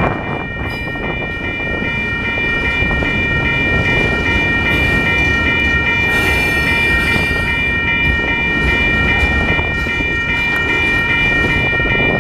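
Freight train cars rolling through a rail yard with a steady low rumble. Over it runs a continuous high ringing of several tones that pulse a few times a second.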